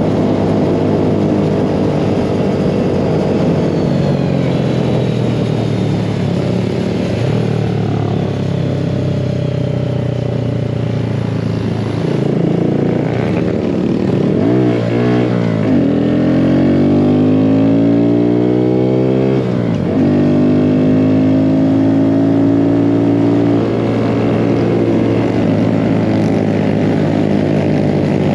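Mini bike engine running under way, its pitch following the throttle. Quick rev swings come a little under halfway through, then the revs climb steadily and drop suddenly about two-thirds of the way in, before it settles into steadier running.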